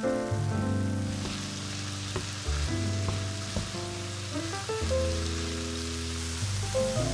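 Ground beef and diced shallot sizzling in a frying pan, stirred with a wooden spoon that scrapes and knocks against the pan now and then. The sizzle grows stronger about a second in, over steady background music.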